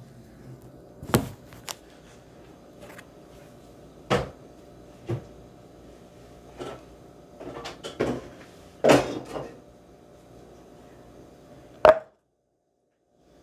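Scattered knocks and clatters of things being handled and set down, about eight over ten seconds, over a steady faint hum. The sound cuts to dead silence near the end.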